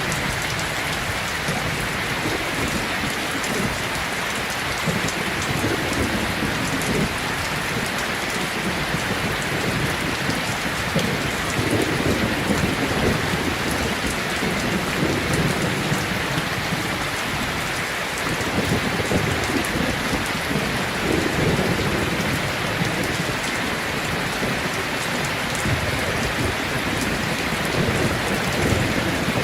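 Steady rain falling, with low rolling rumbles of distant thunder every few seconds.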